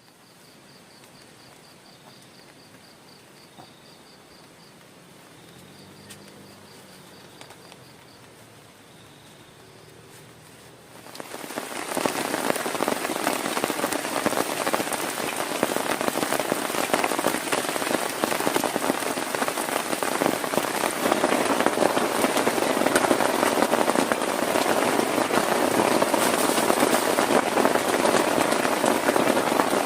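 Faint insect chirping in short rapid trills, then about eleven seconds in heavy rain starts suddenly and goes on as a loud, dense, steady downpour.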